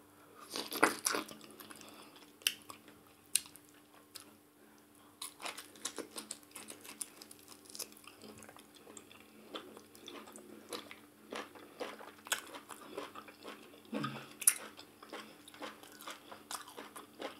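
Close-up chewing and mouth smacking of a person eating ogbono soup with fufu and meat, with irregular sharp smacks and clicks, the loudest about a second in and again near the end.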